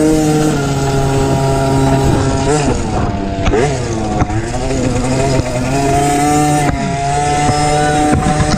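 MXF 50 Pro Racing mini motocross bike's small engine under the rider, heard onboard: it holds a steady high rev, drops and wavers in pitch a few seconds in as the throttle comes off, then revs back up to a high steady note about six seconds in.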